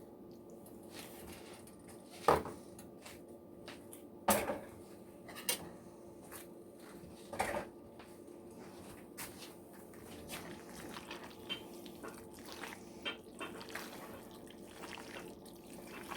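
Macaroni and cheese being stirred: a spoon clinks and knocks against the pot, with a few sharper knocks about two, four, five and a half and seven and a half seconds in and softer scraping ticks between, over a faint steady hum.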